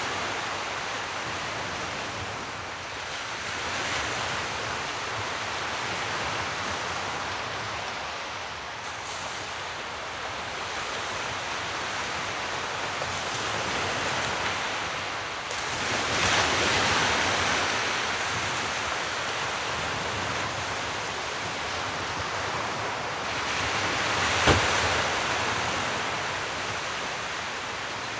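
Sea waves washing in, a steady rush of surf that swells and ebbs, cresting loudest around a third of the way in, midway and a few seconds before the end. About 24 seconds in there is a brief sharp crack, the loudest moment.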